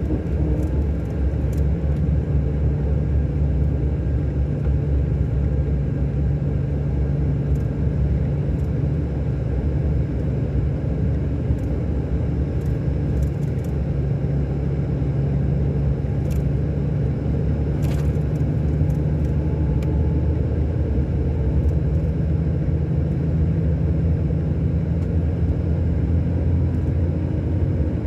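Scania K400 Euro 5 coach's six-cylinder diesel engine running at a steady speed: a steady low drone that doesn't rise or fall, with a few faint light ticks over it.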